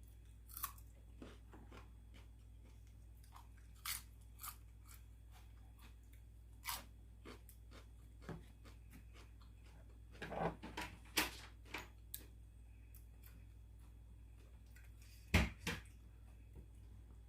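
Close-up eating sounds: a person chewing and biting with crunchy, wet mouth clicks in scattered bursts, busiest about ten to twelve seconds in. A single louder hit comes about fifteen seconds in.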